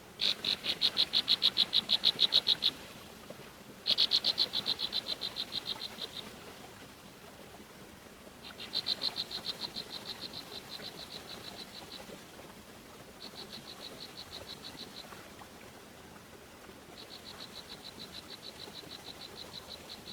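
Repeated pulsed trills from an animal: five bouts, each a fast run of high chirps at a steady pitch lasting two to three seconds. The first two bouts are the loudest.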